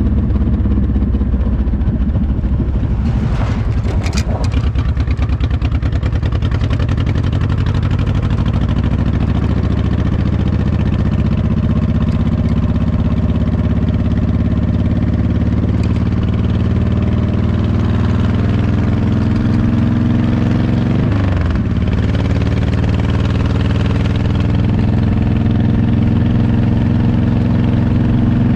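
Motorcycle engine running under way on a highway, its pitch slowly rising as it gathers speed, then dropping sharply about three quarters of the way through at a gear change before climbing again. A brief clatter comes about four seconds in.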